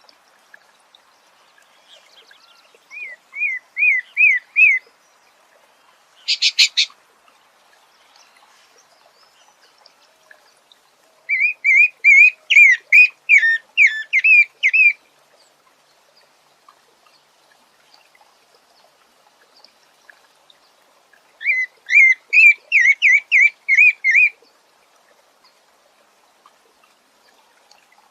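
A sabiá singing: three phrases of quick repeated clear notes, a few seconds each with pauses of several seconds between them, plus a brief harsh rasping note about six and a half seconds in.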